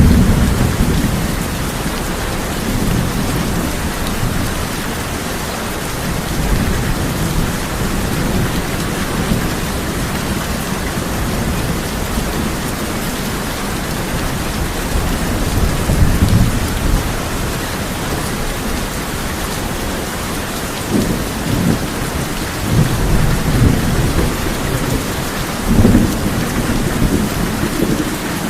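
Steady heavy rain drumming on a tin roof, with low thunder rolls swelling several times, the strongest right at the start, at about 16 seconds, and a cluster in the last third.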